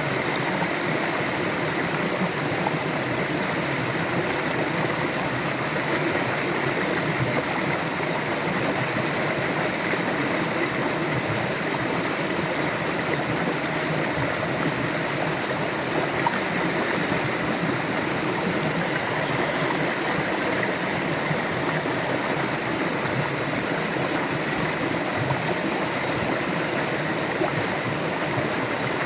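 River water flowing and gurgling over rocks: a steady, unbroken rush with no pauses.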